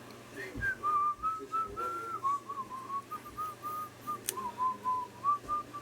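A person whistling a tune: a string of short notes that step up and down around the same pitch. A sharp click sounds about four seconds in.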